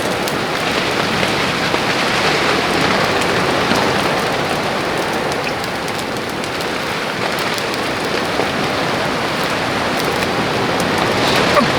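Heavy rain falling steadily: an even hiss with many individual drop hits, and a single sharper tap near the end.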